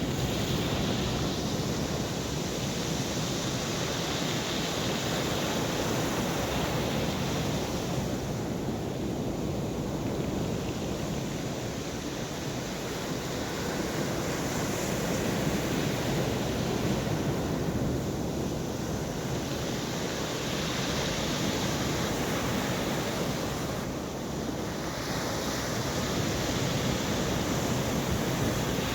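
Rough sea surf breaking and washing ashore in a storm, a steady rushing that swells and eases, with wind buffeting the microphone.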